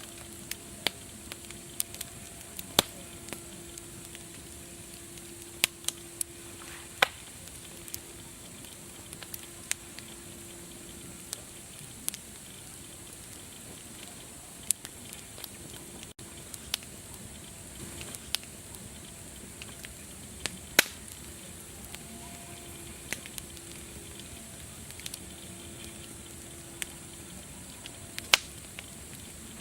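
Wood fire crackling: irregular sharp pops and snaps every second or so, over a steady hiss.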